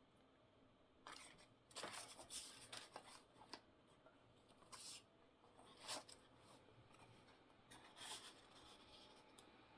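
Faint rustling and sliding of paper scraps handled by hand, in short spells: a run of rustles from about a second in, then single ones around five, six and eight seconds.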